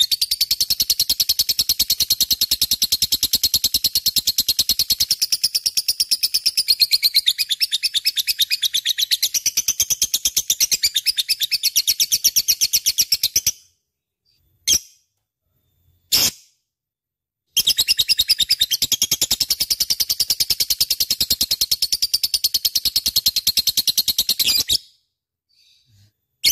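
Lovebird chattering in long, rapid runs of high-pitched repeated notes, many a second. About halfway through it breaks off for two short single calls, then starts a second run, which stops shortly before the end.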